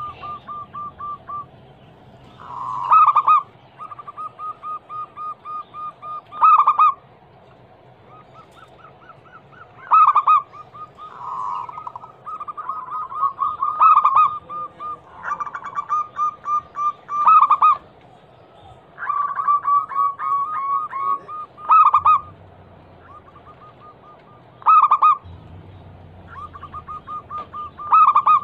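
Zebra doves (perkutut) cooing: fast runs of soft staccato notes, broken every few seconds by a louder rolling coo, with runs sometimes overlapping. It is a vocal female's call, used as a lure to draw a male into answering.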